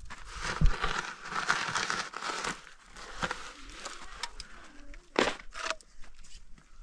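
Irregular rustling and crinkling of something being handled, with a few sharper knocks: one about a second in and another a little after five seconds.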